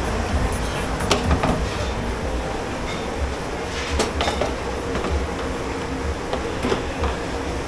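Dishes and cutlery clinking a few times in a dish pit, over a steady low rumble and hum of kitchen machinery.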